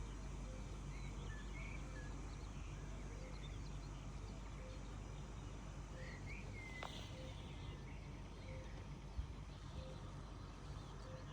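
Birds chirping in short, scattered high calls over a steady low background rumble, with a low note repeating about once a second throughout. A single low thump about nine seconds in.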